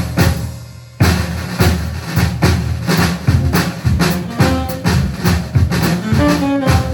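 A New Orleans-style jazz band playing live. A drum kit keeps a steady groove of bass drum and snare strokes, and pitched instrument notes join in about halfway through.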